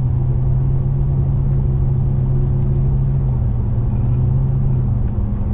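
Truck driving at highway speed, heard from inside the cab: a steady low drone of engine and road noise with a constant low hum.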